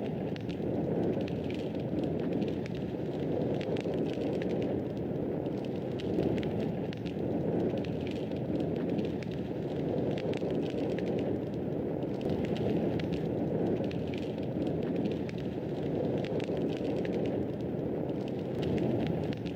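Fire burning in a fireplace: a steady low rush of flame with frequent small sharp crackles and pops throughout.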